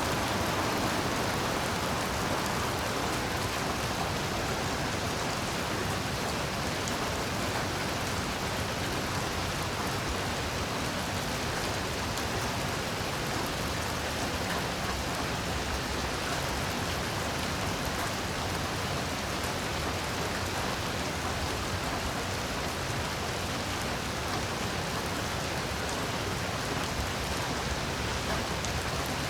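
Heavy, steady rain pattering on surfaces, an even wash with no thunder or other distinct events.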